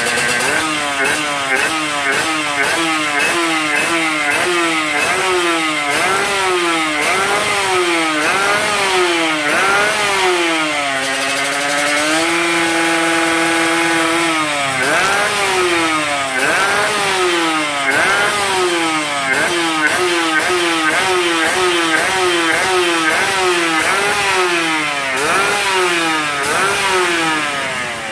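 Yamaha RX-King two-stroke single-cylinder motorcycle engine, fitted with an aftermarket racing exhaust, being revved in quick throttle blips about once a second. Near the middle it is held at a steady raised speed for about two seconds, then the blipping resumes.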